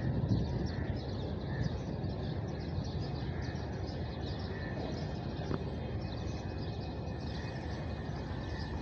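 Birds chirping repeatedly in the trees over a steady low background rumble; no train is heard yet.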